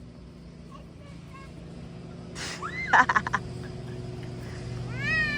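Young children squealing while being pushed on playground equipment: a sharp shriek about three seconds in and a rising "wee"-like squeal near the end, over a faint steady low hum.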